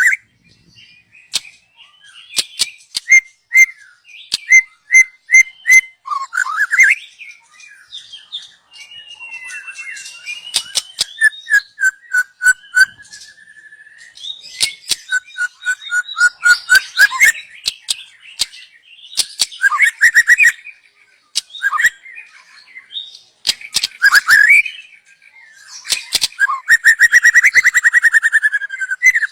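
White-rumped shama singing: runs of short repeated whistled notes, gliding and wavering whistles, and sharp clicking calls. The song ends in a long, rapid buzzy trill near the end.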